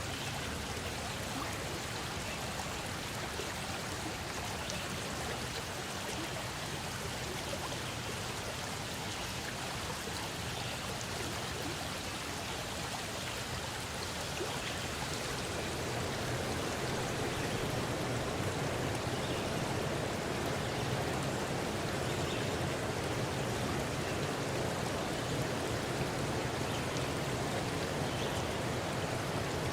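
Running water: a steady, even rush that grows a little louder about halfway through.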